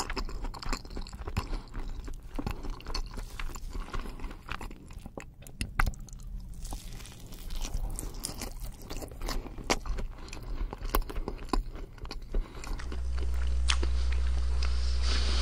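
Close-miked ASMR chewing and biting into a bacon-wrapped dish, with many short crunches and wet mouth clicks. About 13 seconds in this gives way to a steady low hum with hiss.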